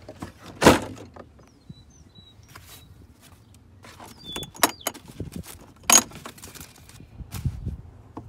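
Several separate sharp clacks and knocks from things being shut and put away by hand, the loudest about six seconds in.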